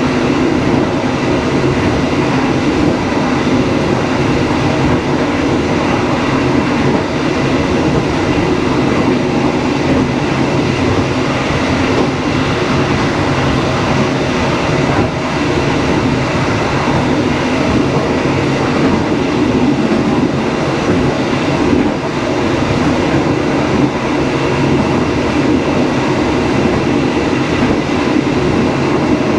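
Dharmawangsa passenger train running along the track: a steady rumble of wheels on rails that holds level without pauses.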